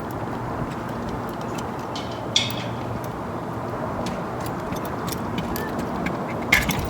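A steady low rumble with sharp clicks of hand tools on metal, once about two and a half seconds in and again near the end.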